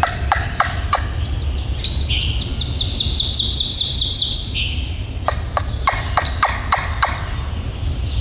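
Turkey yelps from a hunter's friction turkey call used for blind calling: a series of short evenly spaced yelps, a faster high-pitched run of notes in the middle, then another short series of yelps.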